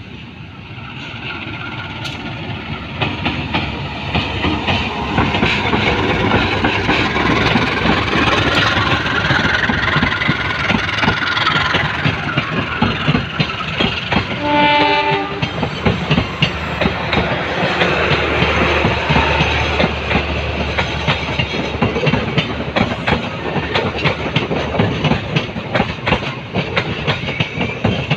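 Gajayana passenger train rolling past as it slows, its wheels running over the rails with a dense clatter of clicks that grows loud within the first few seconds. About halfway through there is a short horn-like tone.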